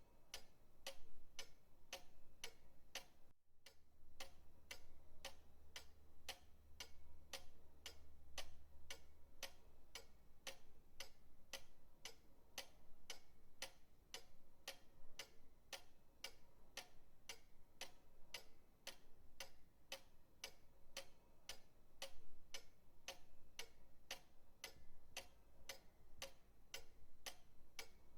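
Pendulum clock ticking steadily, about two ticks a second. The sound drops out for a split second about three seconds in.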